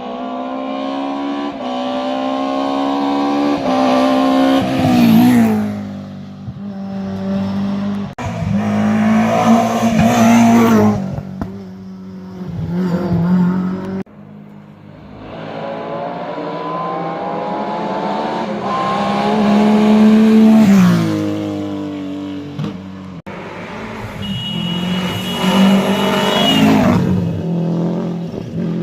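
Historic rally cars racing past one after another, engines revving hard and climbing in pitch, then dropping sharply as each car passes, about four times.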